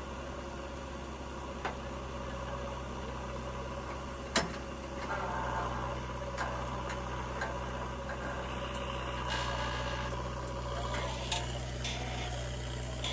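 Diesel engine of a heavy machine running steadily, a little louder from about five seconds in, with scattered clicks and one sharp knock about four seconds in.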